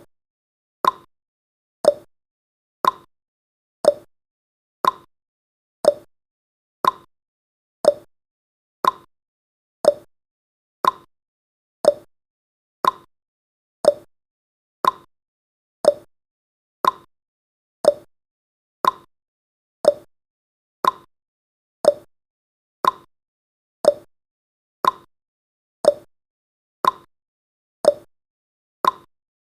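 Countdown timer's clock-tick sound effect: a short, sharp tick once a second, evenly spaced.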